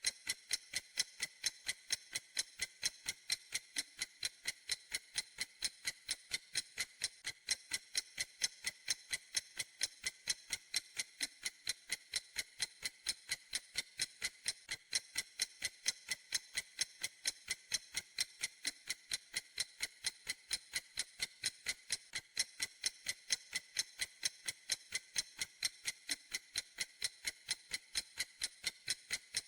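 Clock ticking steadily: sharp, bright ticks evenly spaced at a constant pace, with no change in rhythm.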